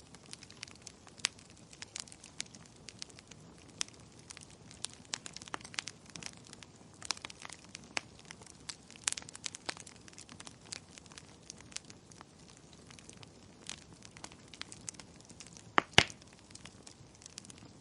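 Wood fire crackling in a fireplace: irregular sharp pops and snaps over a low hiss, with a cluster of louder pops near the end.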